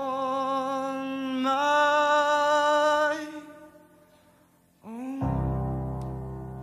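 A young male voice sings a long held note that steps up in pitch about a second and a half in and breaks off around three seconds. After a short pause he starts a new held note, and a low sustained chord comes in under it.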